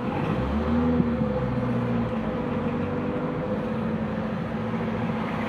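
Vehicle engine hum and road traffic heard from inside a car's cabin in slow traffic. A deeper engine note swells about half a second in and eases off after a couple of seconds, while a steadier hum carries on.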